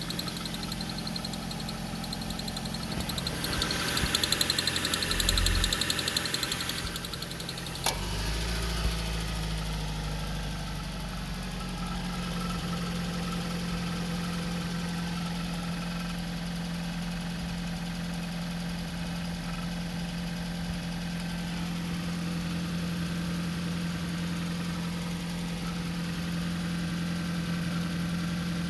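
Suzuki M16A 1.6-litre four-cylinder petrol engine running, louder for a few seconds about four seconds in, with a sharp click near eight seconds, then idling steadily.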